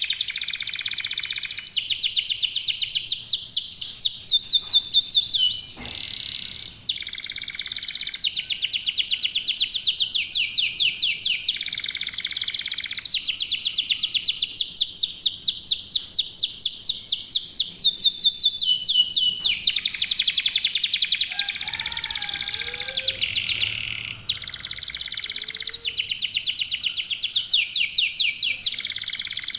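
Local canaries singing, with fast, rapid-fire trills and rolls of repeated high notes that go on almost without a break. A few fainter, lower calls come in about two-thirds of the way through.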